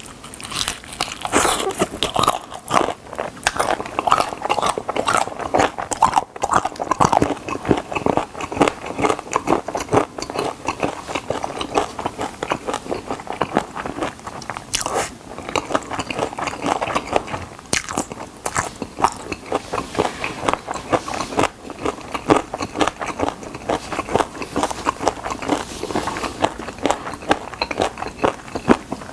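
Close-miked biting, crunching and chewing of fried chicken drumsticks: a dense run of crisp crackles from the fried coating, with wetter chewing in between.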